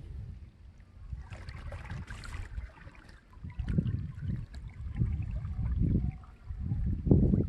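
Wind buffeting the microphone in uneven gusts out on open water, with a short wash of water sound between about one and a half and two and a half seconds in.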